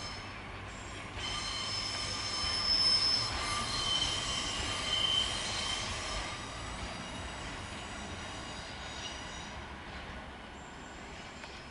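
Railway train's wheels squealing against the rails: several high, steady squeal tones set in about a second in, are loudest in the middle and fade away, over a low rumble of the moving train.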